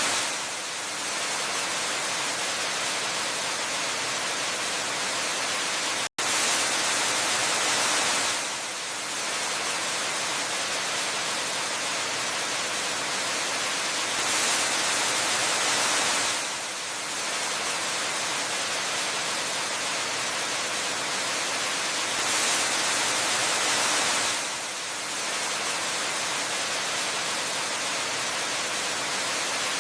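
Steady rushing of a waterfall, an even hiss of falling water that swells slightly louder for about two seconds every eight seconds or so, with a split-second dropout about six seconds in.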